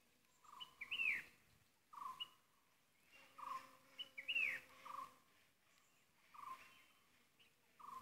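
Birds calling: a short note repeated about every one and a half seconds, with two louder calls that sweep downward, about a second in and again near the middle. Under them a faint steady hum comes and goes.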